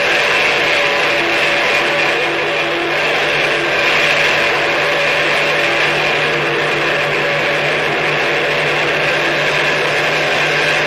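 Harsh noise music: a dense, unbroken wall of hissing noise with a steady low hum held underneath.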